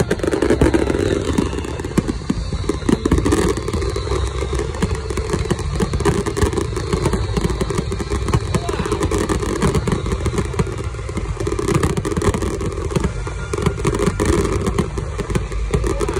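A fireworks finale: a dense, continuous barrage of shells bursting, with rapid bangs and crackling overlapping throughout.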